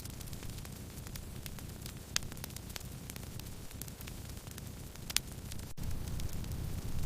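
Firewood burning, crackling with scattered sharp pops over a steady low rumble of the fire. Two louder pops come about two seconds in and about five seconds in.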